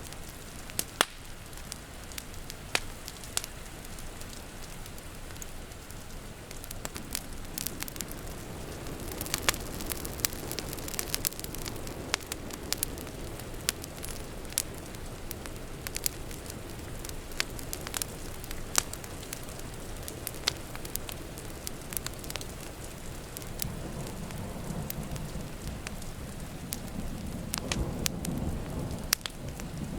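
Wood fire crackling with frequent sharp pops over a steady hiss of rain. A low rumble of thunder swells near the end.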